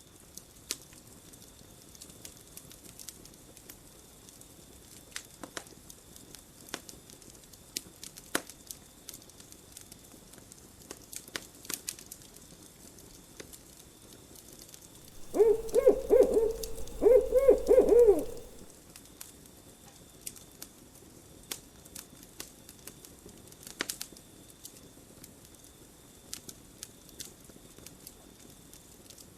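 Campfire crackling with scattered sharp pops. About halfway through an owl hoots in two wavering phrases of about a second and a half each, the loudest sound, over a faint steady high tone.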